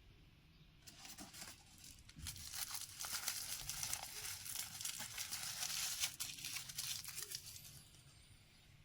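Packaging being crinkled and torn by hand during an unboxing: a dense crackling rustle that starts about a second in, is loudest in the middle and dies away near the end.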